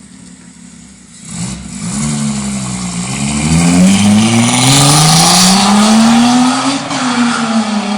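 Datsun 280ZX's straight-six through a new, loud exhaust, accelerating hard from about a second in: the note climbs, dips once at a gearshift about three seconds in, climbs again to its loudest, then falls away near the end.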